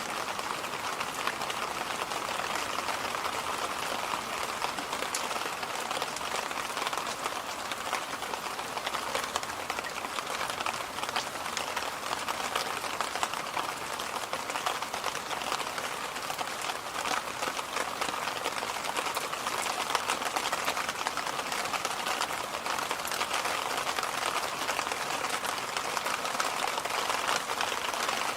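Electric fan running steadily: an even rush of moving air, strongest in the middle of the range, with a fine, fast crackle of little clicks over it.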